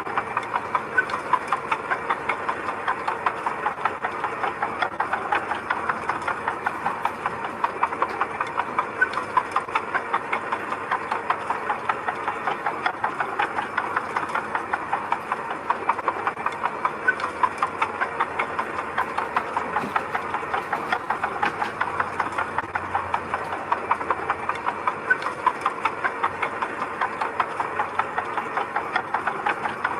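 Engine of a small construction machine running steadily, with a fast, even clatter throughout.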